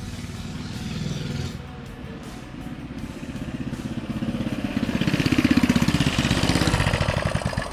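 Mini bike engine running under throttle as the bike approaches and passes close by, loudest about five and a half seconds in, with its pitch dropping as it moves away.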